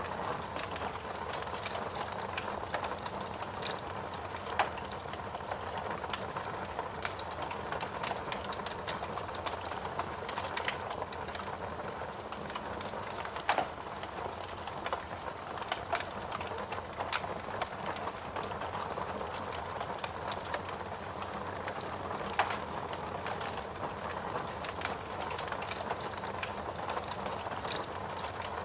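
Log fire in a fireplace crackling steadily, with frequent small snaps and a few louder pops, about five, fourteen and twenty-two seconds in.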